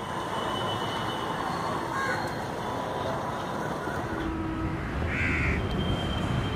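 A crow cawing, loudest once about five seconds in, over a low rumble from the railway line that grows about four seconds in as a train draws near.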